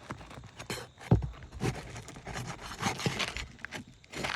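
Asphalt roof shingles being handled and shifted during shingle removal: irregular scraping and rubbing with several knocks, the loudest about a second in.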